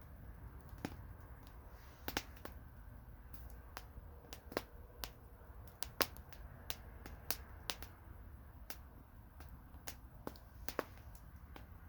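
Campfire burning, with irregular sharp crackles and pops of burning wood, several every second, over a low steady rumble of the flames.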